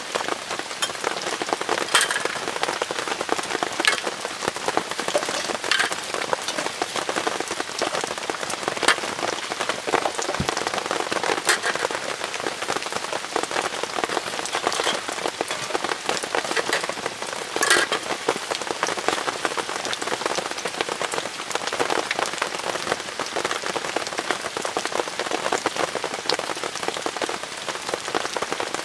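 Steady rain falling on the fabric of a tarp tent, with heavier single drops striking sharply every few seconds.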